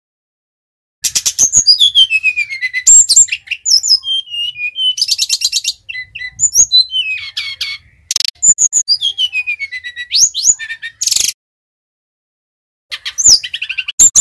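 Sikatan rimba dada coklat (SRDC, a jungle flycatcher) singing loud, fast phrases of high trills and whistles that slide downward. It begins about a second in, breaks off about three seconds before the end and starts again just before the end.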